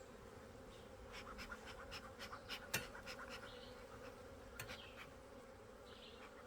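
Faint, steady buzzing of a honeybee colony in an opened hive, with a run of light clicks or taps through the middle, the sharpest about three seconds in.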